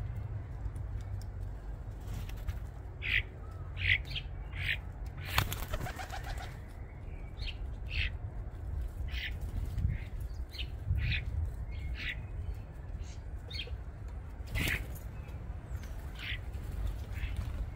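Garden birds giving short high chirps again and again, with a burst of wing flapping about five seconds in and another sharp flap near the end. A steady low rumble runs underneath.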